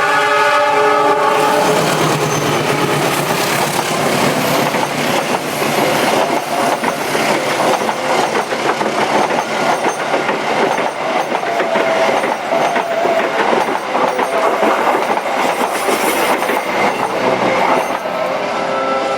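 A train passing close by at a level crossing, its wheels clattering steadily over the rail joints.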